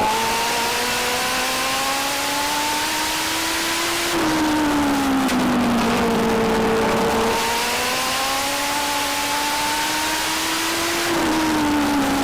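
Legend car's Yamaha motorcycle engine at racing speed: the pitch climbs steadily for about four seconds as it accelerates, falls as the throttle is lifted for a turn, climbs again for several seconds, then falls again near the end.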